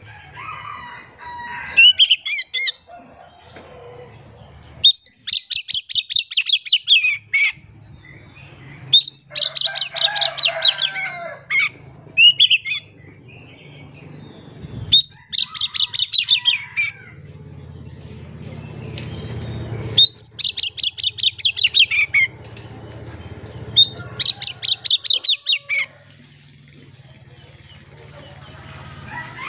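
Oriental magpie-robin (kacer) singing loud bursts of rapid repeated trilling notes, each about two seconds long, repeated every four to five seconds. A steady low hum runs underneath.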